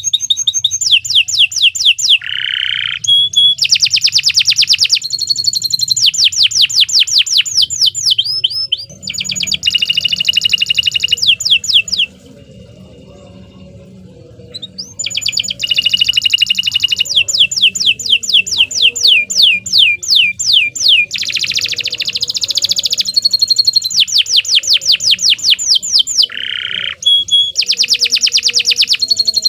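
Domestic canary singing a long, loud song of rapid trills, each made of quickly repeated downward-sweeping notes. The phrases change every second or two, with a break of about three seconds near the middle.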